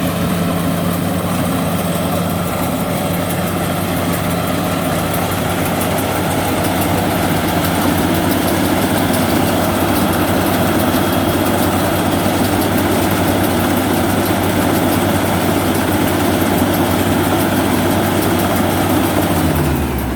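Yanmar 105X combine harvester's diesel engine running steadily. Its pitch drops just before the end.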